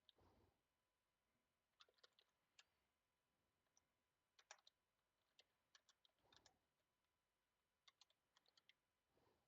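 Very faint computer keyboard typing: short clusters of keystrokes, with a few soft low rustles in between.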